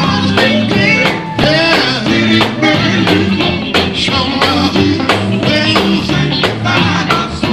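Live gospel quartet band music: electric guitar, bass and drums playing an upbeat song with a steady beat, with voices singing over it.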